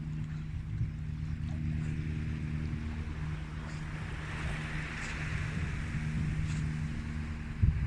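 A steady low motor hum with a low rumble under it, and a faint hiss above that swells midway.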